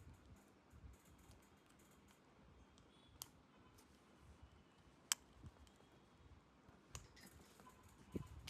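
Near silence broken by three separate sharp clicks, about three, five and seven seconds in.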